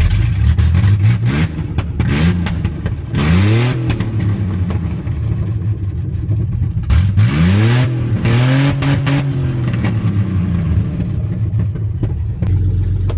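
Truck engine catching at once and revved in several blips, its pitch rising and falling each time, then settling to a steady idle near the end.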